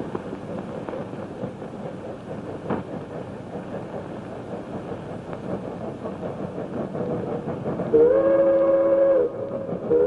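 Steam locomotive running at speed with a rumbling, clattering noise. About eight seconds in, its whistle sounds a loud, steady blast of several tones held together for just over a second, and it starts again at the very end.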